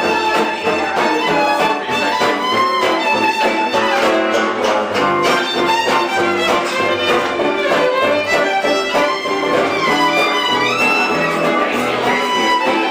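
Live band music: a violin plays a melody with sliding notes over a steady rhythmic strummed accompaniment.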